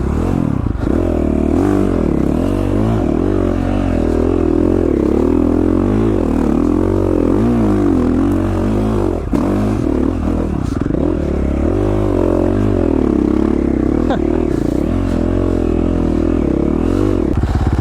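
KTM 450 XC-F's single-cylinder four-stroke engine revving up and down constantly as the rider feeds the clutch through a slippery, slimy stretch of trail, without stalling. Near the end the revs settle to a steadier note.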